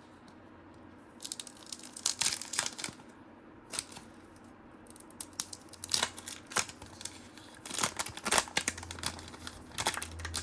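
Trading cards and their paper pack wrapper being handled, with irregular crinkling and rustling that starts about a second in.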